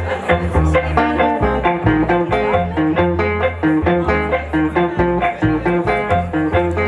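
Live band music: plucked guitar notes over a bass line, with a steady beat.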